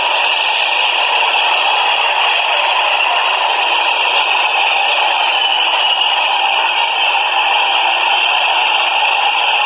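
Subway train running, a steady loud rattling noise that does not change.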